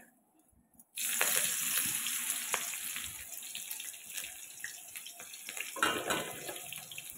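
Hot oil in an aluminium kadai sizzling as chopped greens are dropped in. The sizzle starts suddenly about a second in, slowly dies down, and flares briefly again near the end as a dried red chilli goes in.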